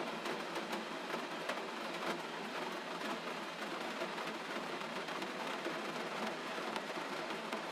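Gentle rain falling steadily: an even hiss scattered with many small drop ticks.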